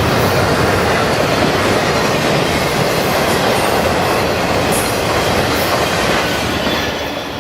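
Intermodal freight train's cars rolling past: a steady, loud rumble and clatter of steel wheels on rail that begins to fade near the end.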